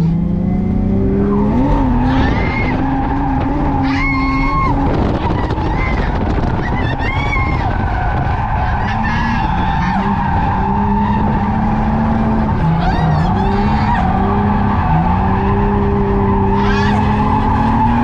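Drift car engine held at high revs, its pitch rising early and dipping a couple of times, under a long continuous tire squeal as the car slides.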